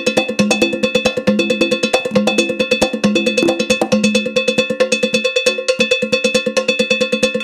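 Candomblé ritual percussion: an iron bell (gã or agogô) struck in a fast, steady pattern, its ringing tones over deeper hand-drum (atabaque) beats.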